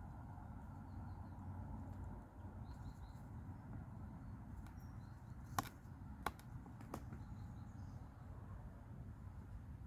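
A few faint bird chirps over a low steady background rumble, with three sharp clicks a little past halfway, spaced a little over half a second apart.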